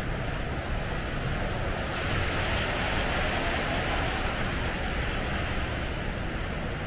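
Snowstorm street ambience: a steady hiss of wind and traffic noise, swelling louder about two seconds in and easing off again before the end.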